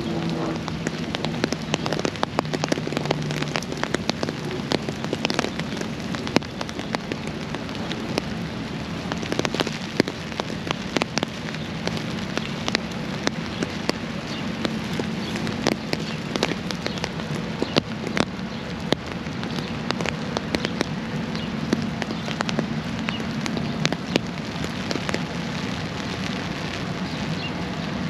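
Steady rain falling, with many sharp drops hitting close to the microphone, over a steady low hum.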